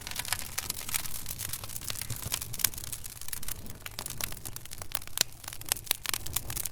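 Wood fire crackling in a fireplace: many irregular sharp pops and snaps over a low, steady rumble of flames.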